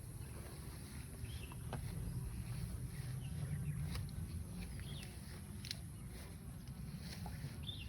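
Birds chirping in short scattered calls over a steady low rumble of wind on the microphone.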